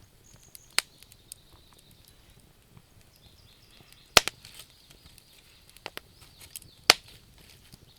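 Wood fire crackling with scattered sharp pops, the loudest about four seconds in and again near seven seconds. Under it runs a faint, high, steady chirring of insects.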